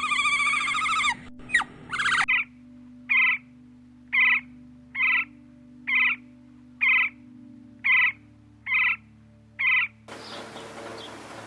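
An animal call repeated about nine times at an even pace of roughly one a second, each call short and alike. Near the end it gives way to a steady outdoor hiss with faint chirps.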